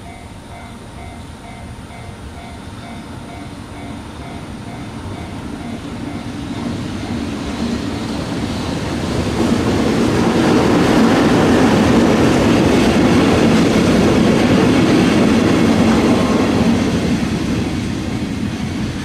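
A train approaching and passing over a level crossing, growing louder until it is loudest from about ten to sixteen seconds in, then easing slightly. A Japanese crossing alarm dings repeatedly at the start before the train drowns it out.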